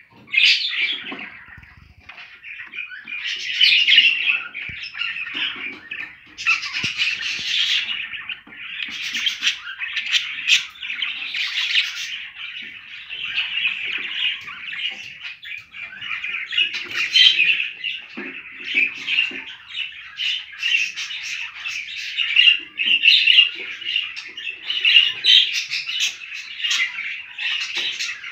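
Budgerigars chattering and warbling without a break, swelling and fading in loudness.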